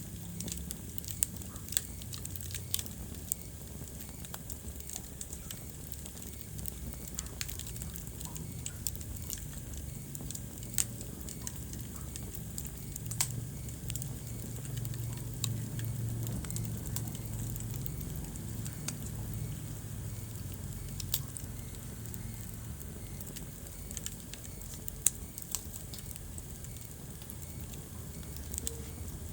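Wood fire burning in a fireplace: irregular sharp crackles and pops, a few of them much louder than the rest, over a steady low rumble of the flames.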